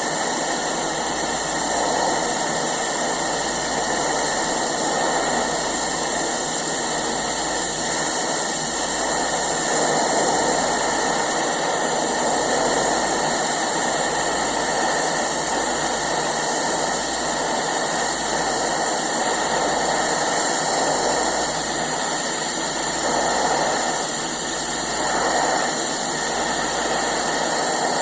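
Eastwood TIG 200 welder's arc burning steadily while a weld bead is laid and filler rod is fed in slowly: an even, unbroken noise that holds for the whole stretch.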